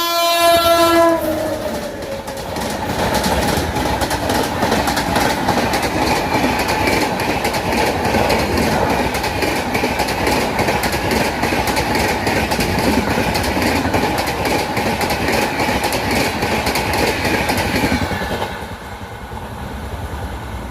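Indian Railways train passing: the locomotive horn sounds and drops in pitch as it goes by about a second in, then the coaches pass with a fast clickety-clack of wheels over the rail joints, falling away near the end.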